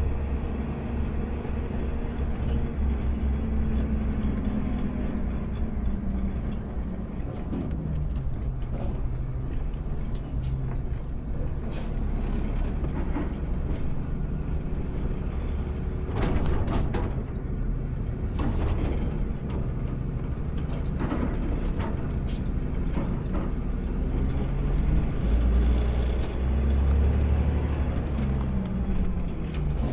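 Automated sideload garbage truck's engine running, its pitch falling in the first several seconds and rising again near the end. A cluster of sharp knocks and clatter about halfway through.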